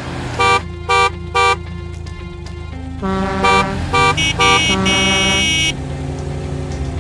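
Cartoon car horns honking: three short beeps about half a second apart, then a few seconds later a cluster of honks ending in one held for about a second, over steady background music.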